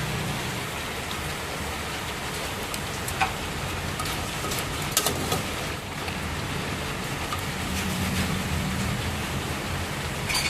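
Steady rain falling, an even hiss, with a few light clicks in the middle.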